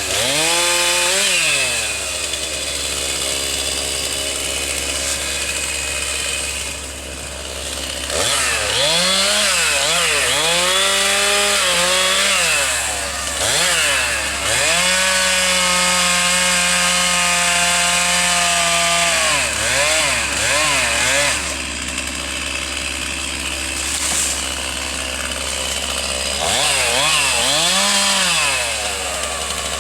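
Chainsaw engine revving up and down from idle again and again, held at high revs for about four seconds in the middle.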